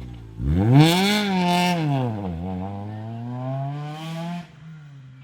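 Small-engined R2-class rally car at full throttle: the engine revs up hard, drops with a gear change about two and a half seconds in, then revs up again and fades off about four and a half seconds in.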